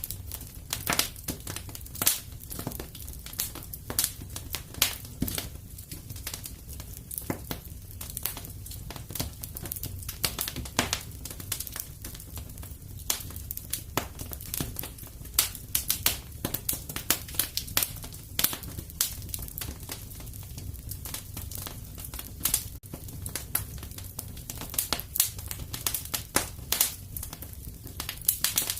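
Wood fire in a fireplace crackling and popping, with irregular sharp snaps over a steady low rumble of flames.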